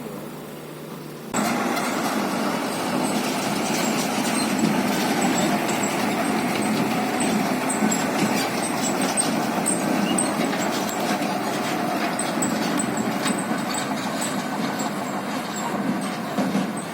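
Heavy truck running: a dense, steady mechanical noise sprinkled with many light clicks and rattles. It cuts in suddenly about a second in.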